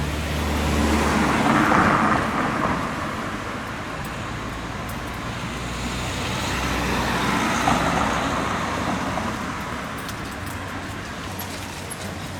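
Street traffic: two motor vehicles drive past one after the other, the first loudest about two seconds in and the second near eight seconds, with engine hum under the sound of their tyres.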